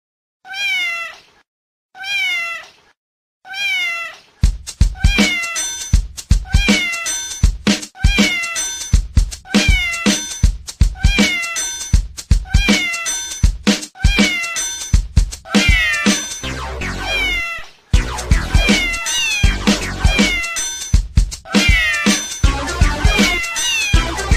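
A domestic cat meows three times, then a musical beat with a steady kick drum comes in about four seconds in, with meows recurring about once a second in time with it.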